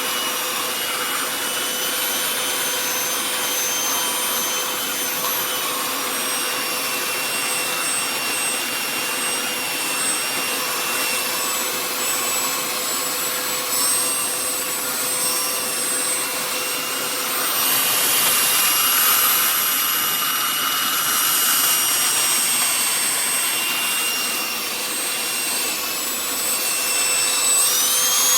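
Hoover Power Scrub Deluxe upright carpet cleaner running, a steady motor whine with several high tones over a rushing noise. It grows louder and noisier for a few seconds past the midpoint, and its pitch rises sharply near the end.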